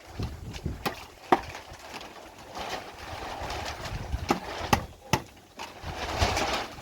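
Several sharp knocks at irregular spacing, with gusts of wind noise between them.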